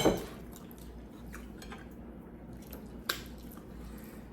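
Quiet eating sounds at a table: soft mouth and food noises with a few faint clicks, and one sharp click, like cutlery on a plate, about three seconds in. It opens on the tail of a voice.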